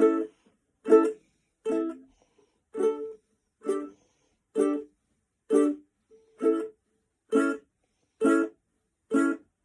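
Ukulele strummed in single short strokes, about one a second, eleven in all, each chord stopped short instead of left ringing.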